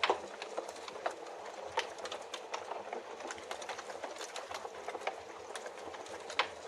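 Wood fire crackling, with irregular pops and snaps, over a steady hiss of rain.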